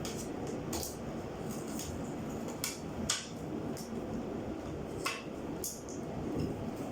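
Scattered sharp clicks and knocks of hand tools and metal parts being handled while a clothes dryer is taken apart, about six in all, the loudest about three seconds in.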